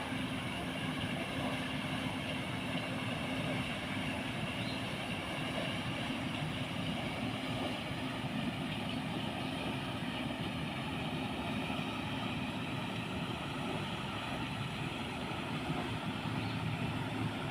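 Pond water wheel (motor-driven paddle-wheel aerator) running, a steady churning of water over a continuous low motor hum.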